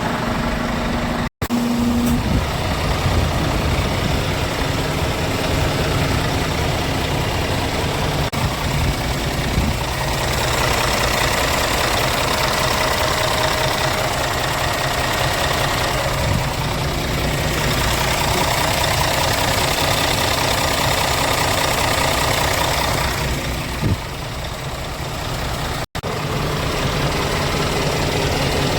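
Scania P410 truck's diesel engine running steadily at idle, its tone shifting a few times, with two brief drops to silence where the recording is cut.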